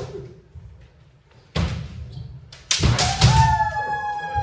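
Kendo bout: a few sharp knocks and thuds of bamboo shinai strikes and feet stamping on the wooden dojo floor, followed by a long, high kiai shout held for about two seconds.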